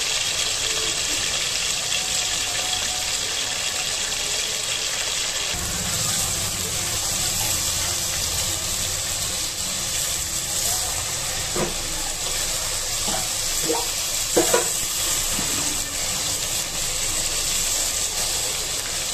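Marinated chicken pieces frying in hot oil in a clay pot, a steady sizzling hiss. Around the middle a steel spoon stirs them, with a few short knocks against the pot.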